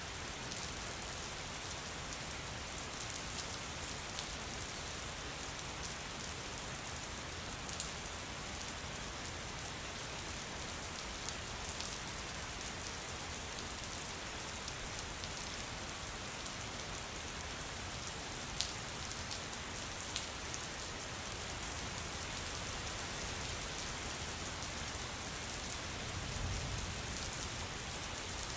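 Steady rain falling, with single drops ticking out now and then and a brief low rumble near the end.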